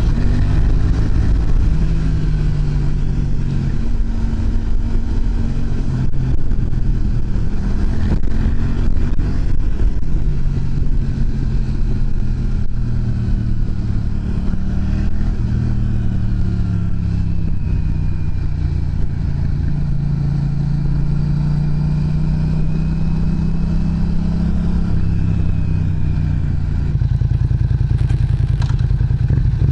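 Yamaha MT-07's parallel-twin engine running through an aftermarket muffler, its exhaust note rising and falling gently in pitch.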